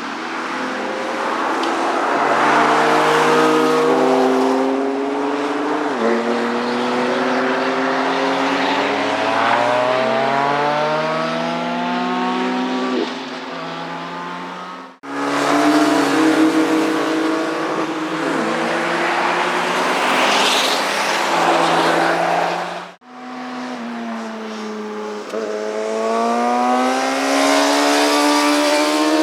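Motorcycles passing at speed on a racetrack and accelerating hard, the engine note climbing and dropping back at each upshift. The sound changes abruptly twice, about halfway through and again near three-quarters, as one pass gives way to the next.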